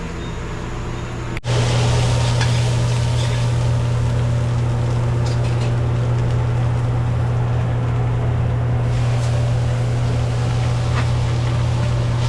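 A steady low mechanical hum, like a motor or fan running. It cuts off for an instant about a second and a half in and comes back louder, with a few faint clicks over it.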